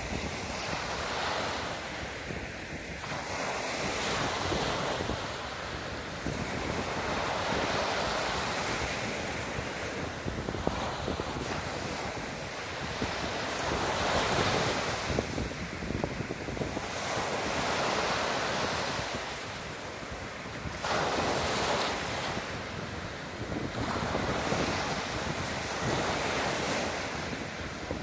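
Baltic Sea surf breaking on the beach in rough water, the wash swelling and easing every few seconds, with wind buffeting the microphone.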